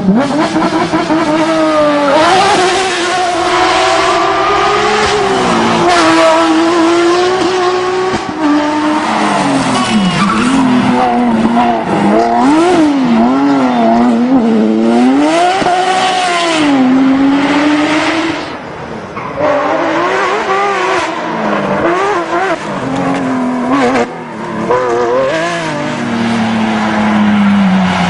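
Porsche 911 GT3 rally car's flat-six engine revving hard, its pitch climbing and falling again and again through gear changes and lifts off the throttle. It drops briefly in loudness twice in the second half.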